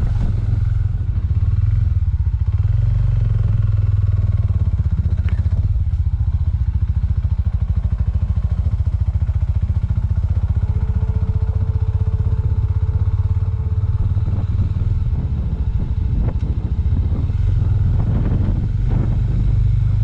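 Small Suzuki motorcycle's engine running steadily under way, with an even low pulsing. A faint steady whine joins for a few seconds about halfway through.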